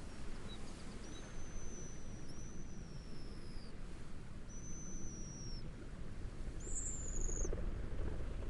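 A steady low wash of wind and gentle waves, with distant birds giving four thin, high whistled calls of about a second each; the second call falls slightly in pitch.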